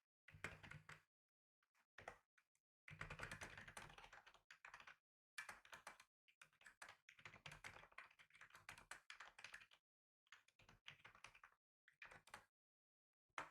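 Typing on a computer keyboard: quick runs of soft key clicks a second or two long, broken by short pauses.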